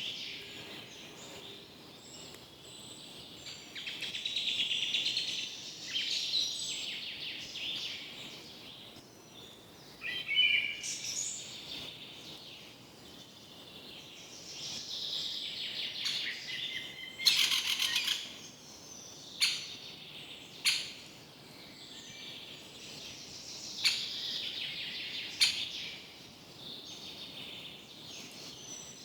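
Several songbirds singing and chirping in a forest, phrase after phrase over a faint steady hiss. Several short, sharp clicks cut in during the second half, the loudest about seventeen seconds in.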